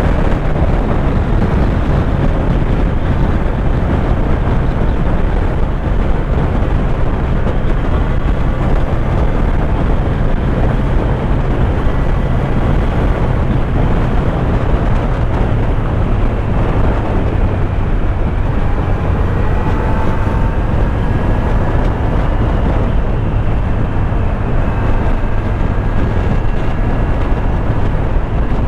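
Kawasaki Z900's inline-four engine running under way, mixed with steady wind rush, with a few slow rises in engine pitch in the second half.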